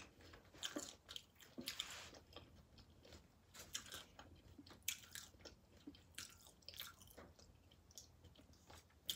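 Close-miked chewing and crunching of loaded nachos with tortilla chips: soft, irregular crunches and mouth sounds.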